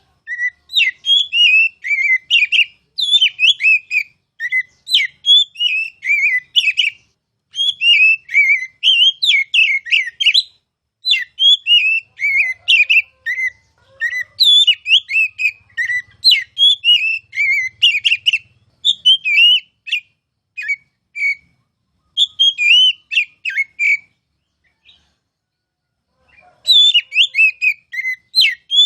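Oriental magpie-robin (kacer) singing a fast run of varied, loud whistled phrases. The song breaks off for a few seconds near the end, then starts again.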